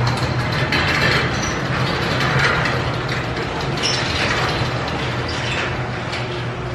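A motor-driven mechanism running steadily: a constant low motor hum under a rattling, grinding clatter that swells and fades every second or so.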